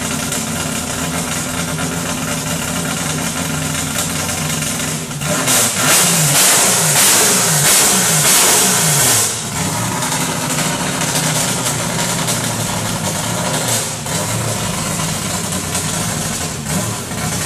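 Freshly built car engine on its first run, idling steadily. From about five seconds in it is revved up and down a few times for around four seconds, then drops back to idle.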